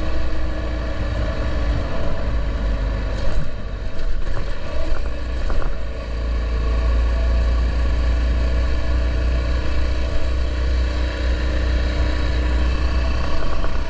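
Honda XR650L's air-cooled single-cylinder four-stroke engine running steadily at road speed, with heavy wind rumble on the microphone.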